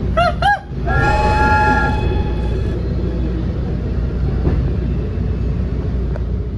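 Steady low rumble of a MARC commuter train running, with a train horn chord sounding for about two seconds shortly after the start.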